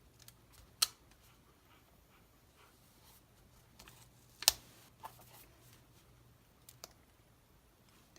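Sticker sheets and a paper planner being handled: a few sharp taps and clicks as stickers are peeled and pressed down, two of them loud, about a second in and midway.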